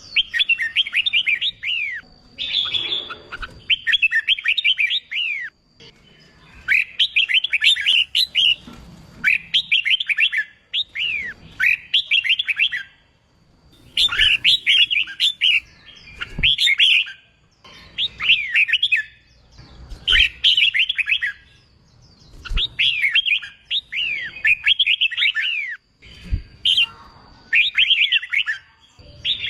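Red-whiskered bulbul singing: rapid phrases of quick falling notes, one after another with short pauses between them. A few faint low knocks fall between the phrases.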